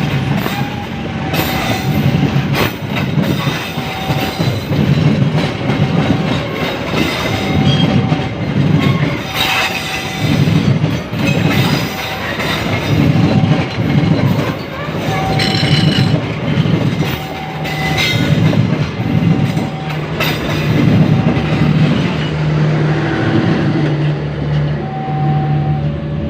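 A train passing over a level crossing, its wheels clacking over the rail joints in a steady rhythm, while the crossing's warning bell rings over and over. A steady low hum comes in near the end.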